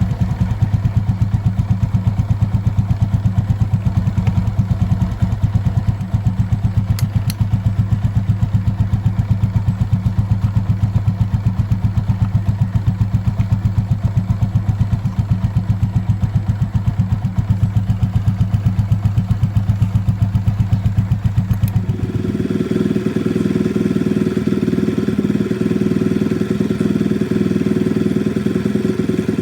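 Suzuki Raider J Crossover motorcycle's single-cylinder engine idling steadily, then revved up about three-quarters of the way through and held at higher speed, with the engine running after its filter replacement.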